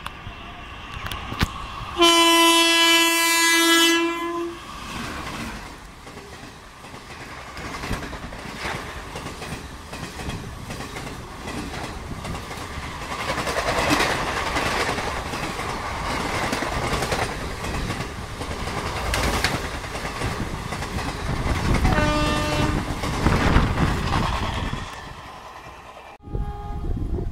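Express passenger train hauled by a WAP-4 electric locomotive passing at speed: a loud horn blast of about two seconds, then the coaches rush by with a steady rhythmic clatter of wheels over the rail joints. A fainter, shorter horn sounds near the end, and the sound drops off abruptly about a second before the end.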